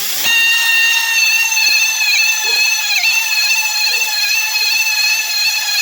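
Honda motorcycle speedometer, spun by a drill through a cut-off speedometer cable, letting out a loud, steady high-pitched squeal that wavers slightly in pitch and cuts off sharply just before the end. The squeal comes from the dry, ungreased turning part of the speedometer drive.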